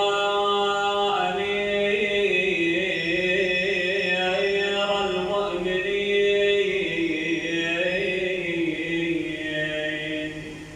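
A man's voice chanting one long, slowly wavering melodic line in the style of a Shia lament recitation, held without breaks and dying away near the end.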